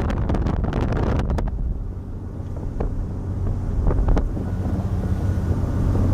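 Motorboat under way: its engine runs steadily under heavy wind buffeting on the microphone, the buffeting heaviest in the first second and a half.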